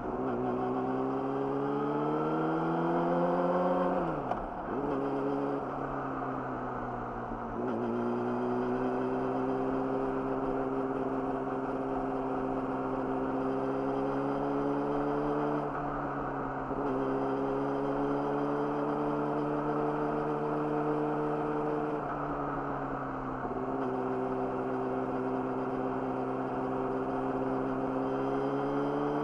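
Yamaha YZF-R6's inline-four sport bike engine running through an Akrapovic slip-on exhaust. Revs climb for about four seconds and drop sharply, then the engine settles at fairly steady cruising revs with a couple of brief dips in pitch, as with gear changes or easing off the throttle.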